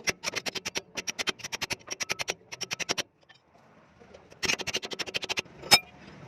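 Rapid series of sharp knocks, about nine a second, in two runs with a pause between, then one louder single knock near the end: tool work on truck suspension parts.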